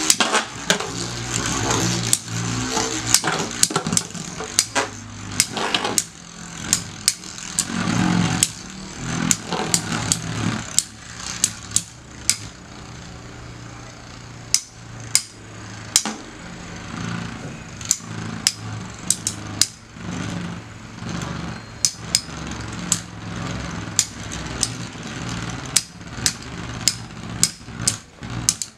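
Two Metal Fight Beyblade tops, Basalt Horogium and Lightning L-Drago, spinning against each other in a stadium: sharp metal clacks of repeated collisions, irregular and about one or two a second, over a steady spinning whirr.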